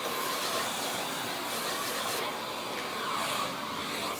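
Steady blowing, hissing noise of a workshop machine running, such as a hot-air tool or an extraction fan.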